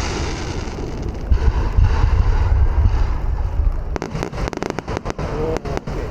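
Aerial fireworks bursting: low booming rumble, then a quick run of sharp crackling pops about four seconds in.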